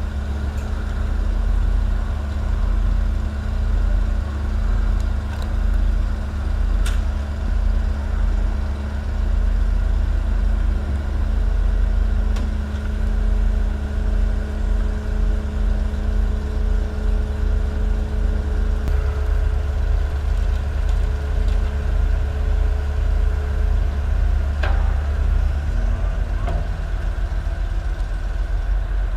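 Heavy diesel engines of recovery vehicles and excavators running steadily with a low drone. One engine note drops lower about two-thirds of the way through, and there are a few brief clicks.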